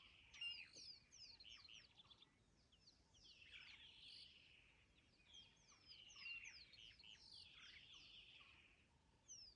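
Faint birdsong: a busy chatter of quick high chirps and down-slurred whistles, a little louder about half a second in and again about six seconds in.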